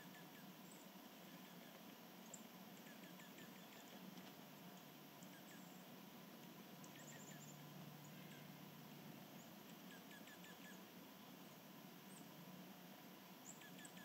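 Faint chirping of small songbirds: short, quick runs of high notes several times over a low steady hum.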